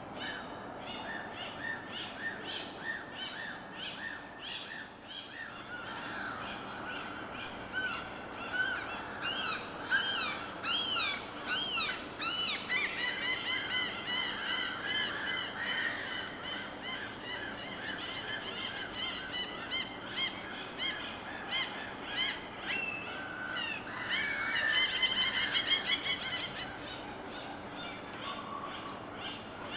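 Several birds calling and singing over a steady background hush: a quick run of short repeated notes at first, then loud, arching whistled notes, then fast twittering, with another burst of calls near the end.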